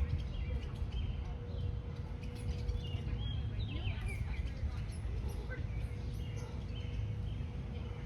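Small birds chirping, many short high notes and quick sweeps one after another, over a steady low outdoor rumble.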